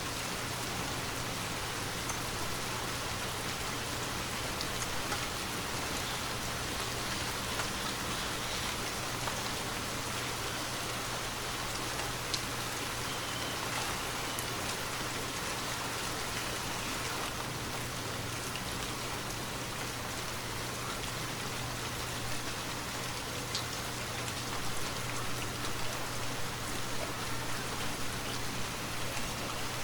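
Steady rainfall hissing evenly, with scattered sharper ticks of single drops. It grows a little more uneven near the end.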